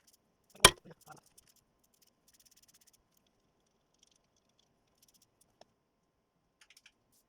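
Workshop handling noise during engine assembly: one sharp metallic knock, two smaller clunks just after it, then faint scattered clicks and a light clink near the end.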